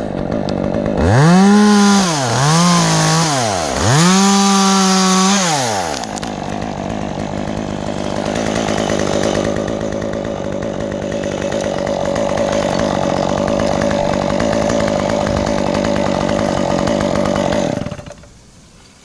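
Stihl two-stroke chainsaw revved up three times, the pitch rising and falling with the throttle, then held running steadily through a cut in pine wood for about twelve seconds before it stops near the end.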